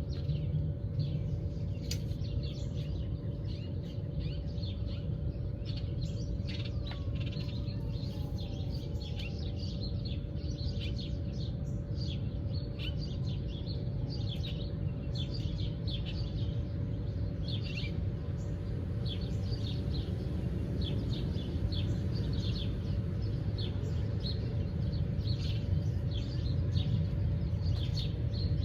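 Many songbirds chirping and twittering in short, quick calls throughout, over a steady low rumble and a faint constant hum.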